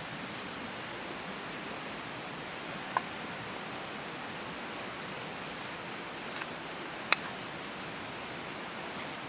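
Campfire of damp wood burning under a steady hiss, with two sharp pops, about three seconds in and again, louder, about seven seconds in.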